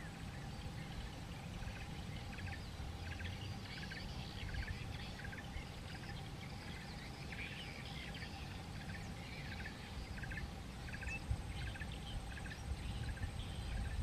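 Wild birds chirping: many short, high calls, a few a second, over a steady low background rumble and a faint steady hum.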